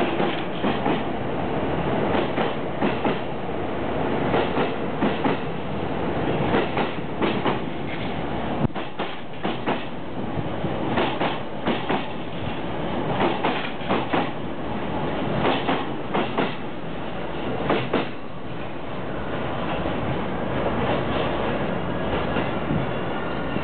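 E233-series electric commuter train pulling out over the points, its wheels clattering in quick pairs of clicks over the rail joints and switches above a steady rumble. The clicks stop about three-quarters of the way through and only the rumble remains.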